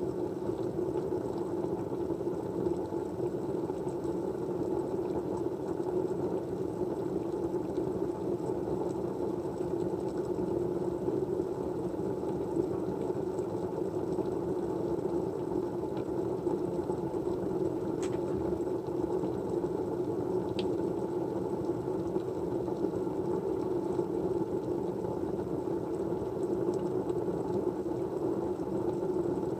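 Steady low rushing hum of background noise, even throughout, with a couple of faint ticks about two-thirds of the way in.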